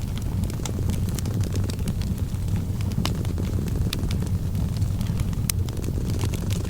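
Fireplace crackling with frequent sharp pops and snaps, over the steady low rumble of a cat purring.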